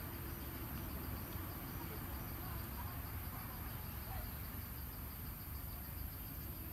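Insects chirping steadily over a constant low rumble, with an even, repeating chirp pattern and no distinct events.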